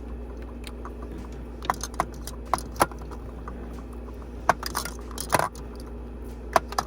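Small lip-product tubes clicking and clacking against each other and the makeup organizer as they are handled and set upright, about nine sharp clicks in small clusters over a faint steady hum.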